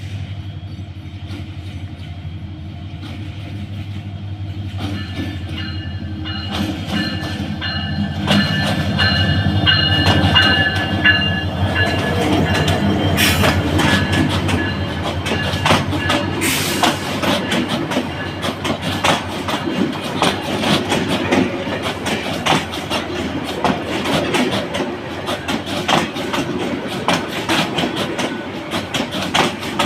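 Bangladesh Railway passenger train passing through the station, its diesel locomotive humming low. A thin, high squeal of steel wheels on rail runs from about five seconds in to about twelve. From then on the coaches clatter steadily over the rail joints.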